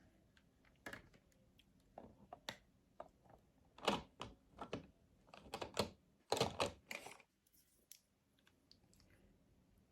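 Irregular clicks and taps of a blush compact and brush being handled, some in quick clusters, going quiet after about seven seconds.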